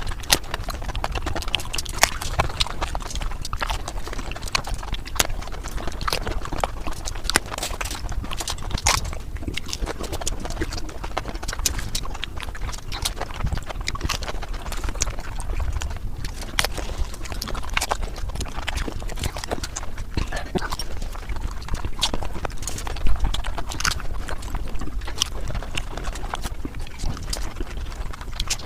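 Golgappa being crunched and chewed, played back at six times speed, so the bites become a rapid, irregular run of clicks over a low rumble.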